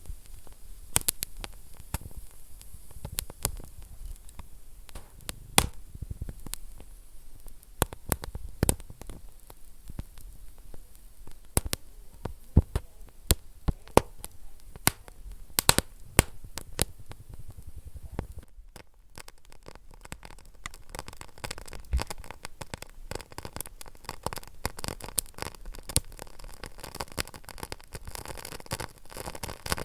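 Wood fire burning in a fireplace, crackling with sharp pops at irregular intervals. About two-thirds of the way through, a low rumble gives way to a hissier stretch of denser, smaller crackles.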